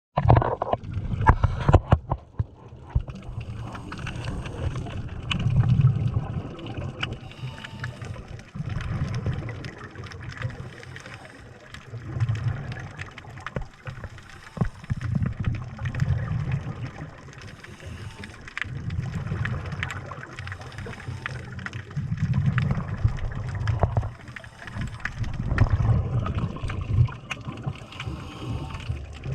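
Scuba diver breathing through a regulator underwater: a low bubbling rush of exhaled air about every three to four seconds, with scattered sharp clicks between.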